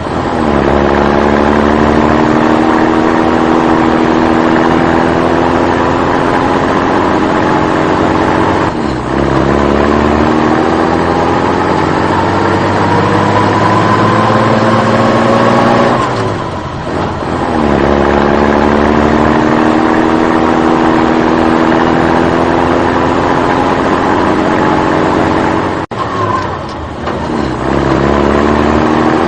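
An engine accelerating through its gears: its pitch climbs steadily for about eight seconds, then drops briefly at each shift and climbs again, four times over. A short click comes near the end.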